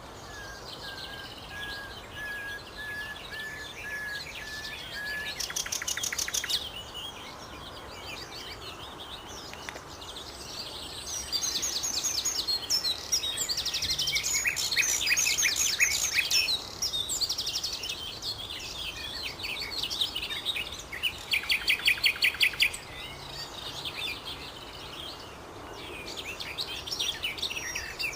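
Common nightingale singing in separate phrases. It opens with a row of short, evenly spaced whistled notes held on one pitch, then moves to fast, loud trills and rattling phrases with pauses between them. The loudest is a rapid trill about two-thirds of the way through.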